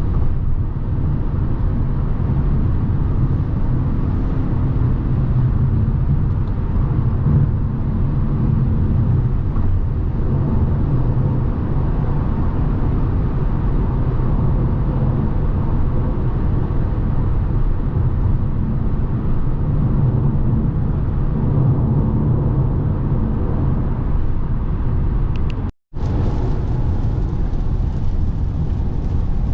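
Steady low road and wind noise of a 2017 Lexus NX 300h hybrid cruising on the autobahn, heard from the cabin. Near the end the sound cuts out for a moment, then resumes with more hiss.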